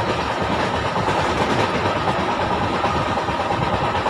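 A moving passenger train heard from inside the coach: steady running noise of the wheels on the rails.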